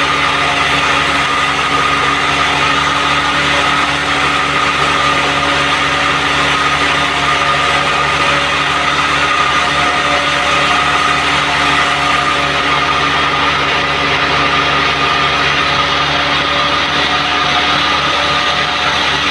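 Band sawmill running steadily as it saws a teak log, a constant machine whine with a dense hiss of cutting.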